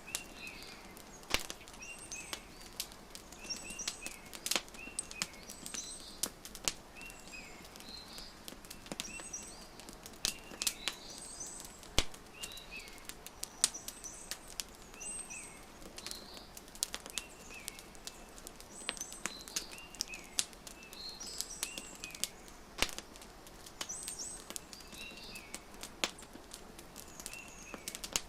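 Wood fire crackling with frequent sharp pops, a few much louder than the rest, over small birds chirping in short repeated phrases.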